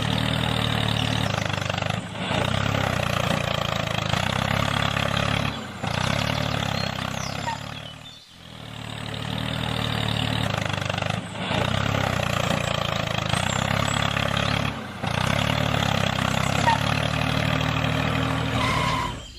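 Tractor engine running steadily, its sound broken off and resuming abruptly several times, with a fade down and back up about eight seconds in.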